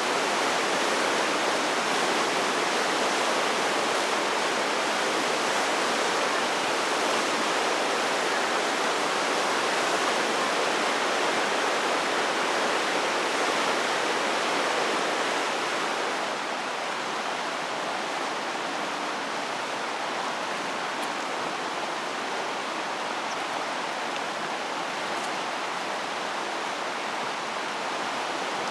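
Mountain river rushing steadily, dropping a little in level about 16 seconds in.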